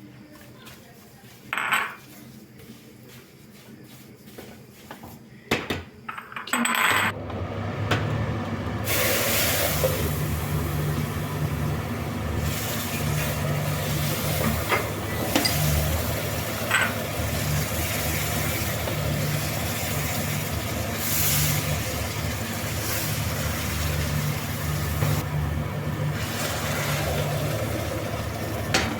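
A few light clinks, then about seven seconds in a household appliance motor starts up and runs steadily with a low hum and a hiss.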